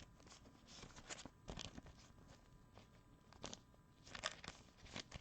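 Trading cards and their packaging being handled: faint, irregular crinkling and light scratchy clicks, a little louder about a second and a half in and again near four seconds.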